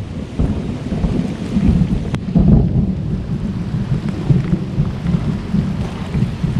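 Thunderstorm: rain coming down with low, rolling thunder rumbling in swells, and a single sharp tap about two seconds in.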